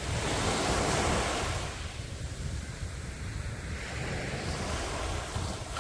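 Sea waves breaking on the shore: one wave crashes about as the sound begins and washes up loudly, then fades, and a smaller wash follows near the end. Wind rumbles on the microphone throughout.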